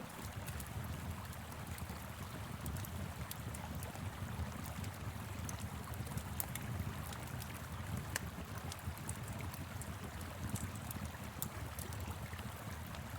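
Wood fire crackling, with scattered sharp pops and ticks, over the steady low rush of a flowing river.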